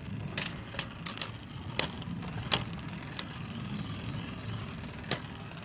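Two 3D-printed Beyblade spinning tops whirring in a stadium and clacking against each other now and then, most often in the first three seconds, with one more sharp clack near the end.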